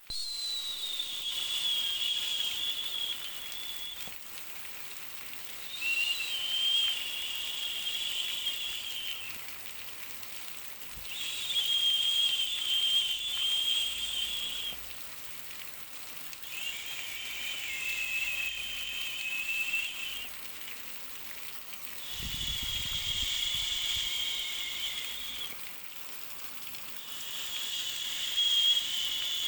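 Baby sleep-noise track: a steady soft hiss with a high, slightly wavering whistle-like tone that swells in about every five and a half seconds and holds for around three and a half seconds each time.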